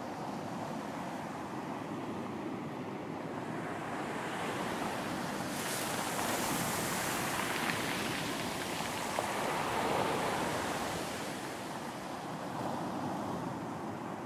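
Ocean surf on a beach: a wave builds about four seconds in, breaks and washes up with a loud hiss, then eases back under a steady rumble of surf.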